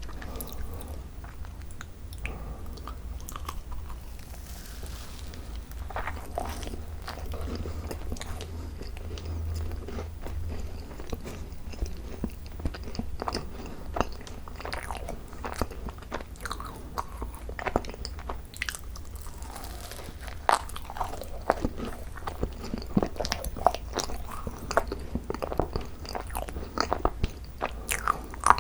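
Chewing and biting of thick-filled Korean macarons (ttungcarons): crunching of the shells and wet chewing of the cream, many short clicks that grow denser near the end, over a steady low hum.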